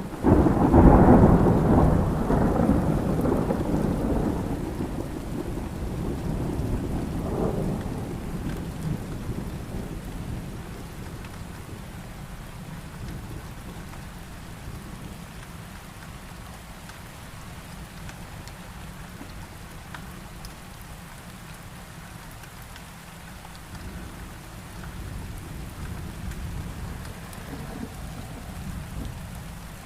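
Heavy rain falling steadily, with a loud thunder rumble that breaks in at the start, peaks about a second in and rolls away over the next ten seconds; a fainter rumble swells near the end.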